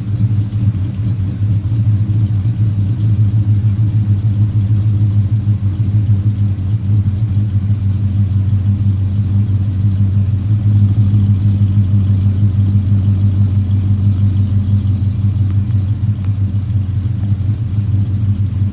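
2011 Dodge Charger R/T's 5.7-litre Hemi V8, fitted with a 270 cam, ported heads, long-tube headers and 2.5-inch Magnaflow mufflers, idling steadily with a deep exhaust note.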